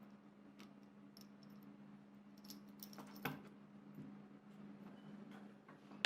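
Faint clicks and light metallic clinks of small parts being handled, over a steady low hum, with a louder knock about three seconds in and a sharp knock at the very end.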